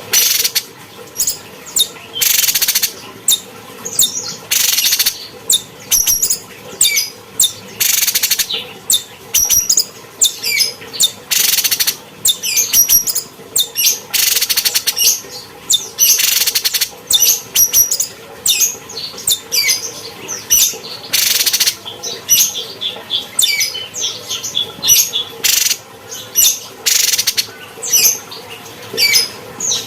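Cucak cungkok singing a rapid, varied song of short high chirps and whistled trills, broken about every few seconds by a harsh, raspy burst about a second long.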